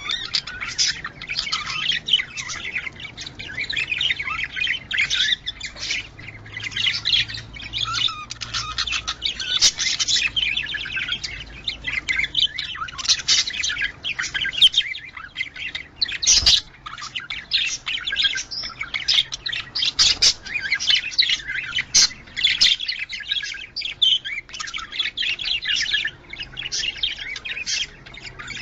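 A group of budgerigars chattering and chirping nonstop in rapid, overlapping warbles and squawks, the kind of budgie song played to bring birds into breeding condition. One sharp knock comes about sixteen seconds in.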